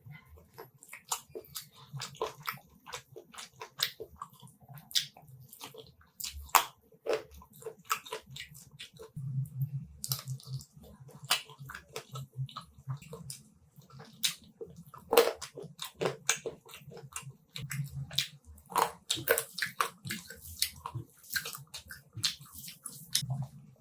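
Close-miked eating of spicy chicken curry: irregular wet chewing, lip smacks and sharp mouth clicks, some louder than others.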